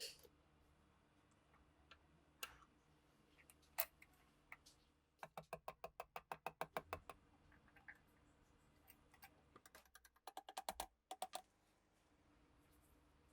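Faint small sharp clicks from handling the pistol's parts: a few single clicks, then two quick runs of clicks at about seven a second.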